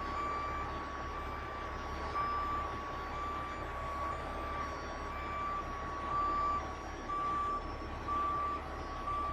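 Heavy truck's backup alarm beeping repeatedly at one steady pitch, over a diesel engine running.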